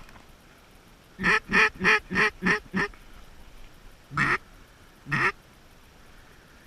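Loud mallard hen-style quacks: a quick run of six, then two longer single quacks about a second apart.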